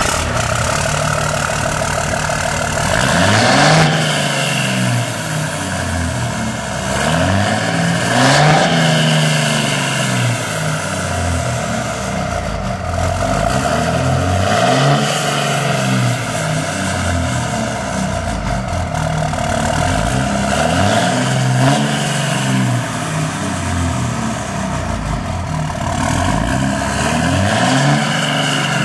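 Diesel truck engine through a 5-inch straight exhaust with no muffler, running and revved up and down about five times, each rev rising and falling in pitch over a couple of seconds.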